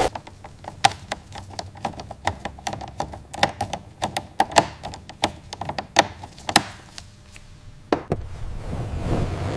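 A string of irregular light taps and knocks, some sharper than others, as of tools or parts being handled during workshop restoration work. Near the end the taps stop and a steady rushing noise builds.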